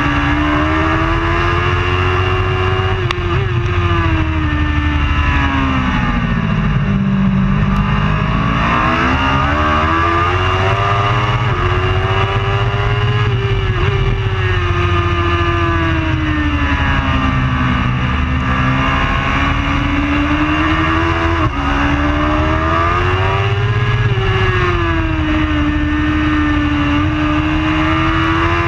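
Racing superbike engine running hard and continuously, its pitch swinging slowly up and down over several seconds, lowest about seven seconds in.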